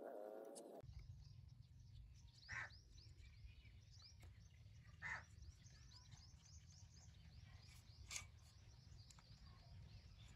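Faint outdoor ambience: small birds chirping rapidly and continuously over a low steady rumble, with three louder single calls a couple of seconds apart.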